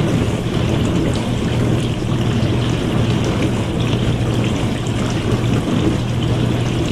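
Dishwasher running its wash: water spraying and splashing inside the tub over a steady motor hum.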